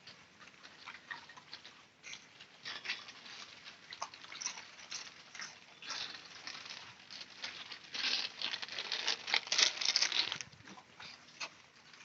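Dogs scuffling: a rapid run of scratchy, rustling patter, densest and loudest for a couple of seconds near the end.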